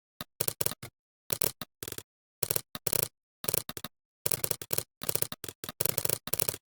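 Computer keyboard typing: irregular bursts of quick keystroke clicks with short pauses between them.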